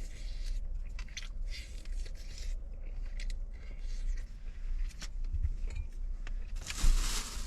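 A person chewing and biting into chicken close to the microphone, with irregular crunching and smacking over a steady low rumble. A louder rustling noise comes near the end.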